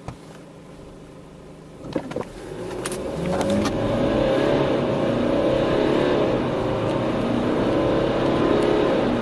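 BMW diesel car engine idling, then a few clicks about two seconds in, then the engine pulling hard under full acceleration: its pitch climbs and it grows loud, then it stays loud with its note wavering up and down.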